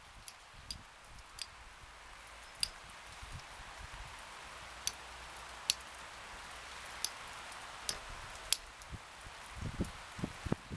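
Rain falling, a steady hiss, with scattered sharp ticks of drops striking something close by.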